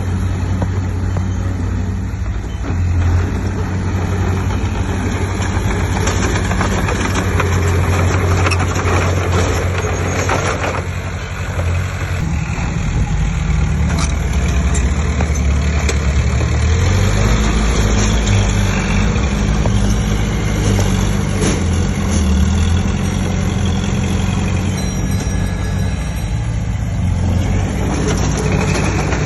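Diesel engine of heavy earthmoving machinery running continuously, its low engine note shifting pitch a few times as the load or throttle changes.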